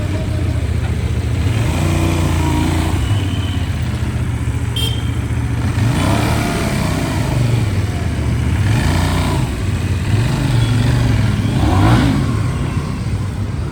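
Motor vehicle engine running steadily, with a few brief revs that rise and fall about halfway through and near the end.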